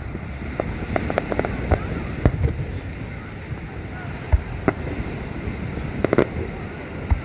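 Fireworks going off: an irregular string of sharp pops and bangs, a few louder booms among them. Underneath is a steady rush of wind and surf.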